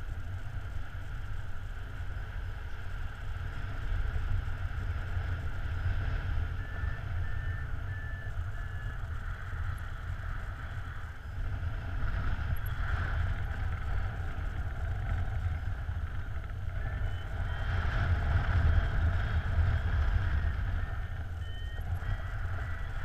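Wind rushing and buffeting over the microphone in paraglider flight. Faint short electronic beeps from a variometer come in a few seconds in and again in the last few seconds, stepping up in pitch near the end, the instrument's signal of climbing in lift.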